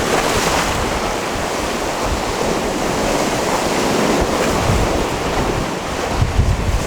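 Sea waves washing onto a rocky shore: a continuous wash of surf that swells about half a second in.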